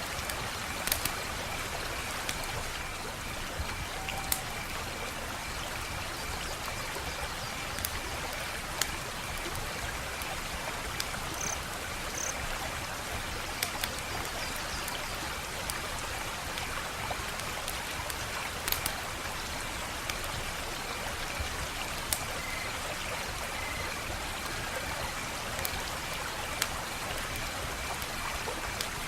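Wood fire crackling: a steady soft hiss with irregular sharp pops and snaps scattered throughout.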